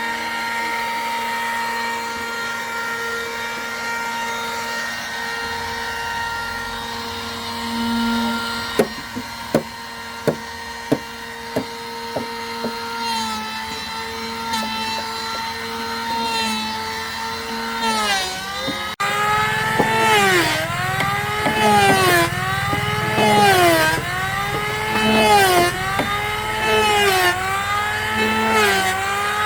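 A small electric power tool's motor running at a steady pitch, with a short run of sharp knocks about a third of the way in. From just past the middle its pitch repeatedly sags and recovers, about every second and a half, as it is pressed into wood and eased off.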